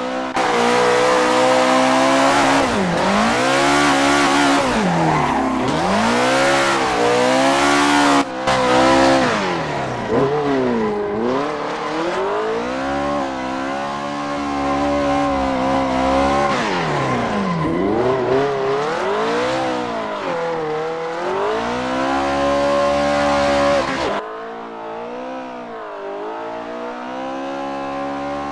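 Engine-swapped VAZ 2105 (Lada) drifting: the engine revs up and down again and again, over a loud hiss of tyre squeal and skidding. The tyre noise stops abruptly near the end, leaving the engine running quieter.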